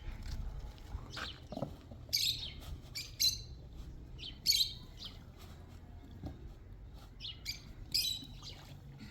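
Small birds chirping in short high bursts, several times over a low steady background.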